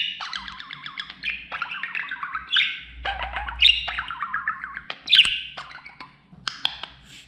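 Budgerigar warbling and chattering: a sharp high chirp about every second or so, each trailing off into rapid, wavering chatter.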